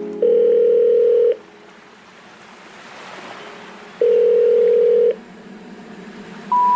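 Telephone line tones: two long, steady ringing-tone beeps about four seconds apart, then three short beeps stepping up in pitch near the end, the pattern of the tone that says a call cannot be completed. A faint hiss sits between the beeps.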